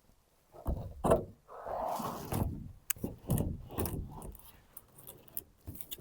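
Knocks and clatter of building work with wooden boards, with a longer scraping sound about a second and a half in and irregular knocks after it.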